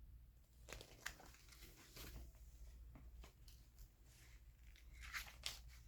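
Faint rustles and soft clicks of magazine pages being handled and turned, the strongest about five seconds in, over a low steady hum.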